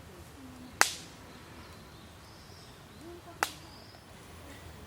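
Two sharp cracks of firewood, about two and a half seconds apart.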